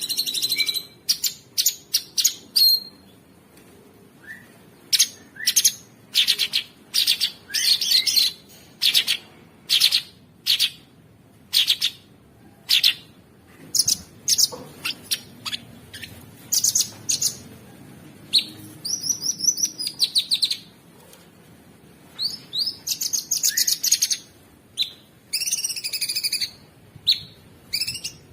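Cucak sungkok songbird singing: quick runs of short, sharp, high chirps broken by brief pauses, with a few longer warbling phrases near the middle and towards the end.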